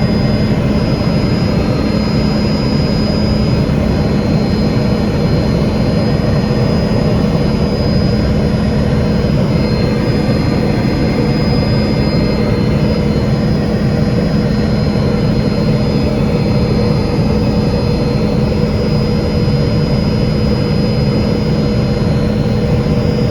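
Helicopter turbine and rotor running steadily and loudly, heard from inside the cabin during flight, with a steady low hum and a thin high whine over an even roar.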